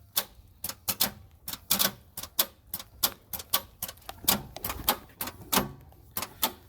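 Sharp, unevenly spaced clicks, several a second, from the Buick Century's starter as the key is held and the hot engine fails to start. The owner wonders whether it is a starter issue; he puts it down to a half-dead battery and a heat-soaked engine.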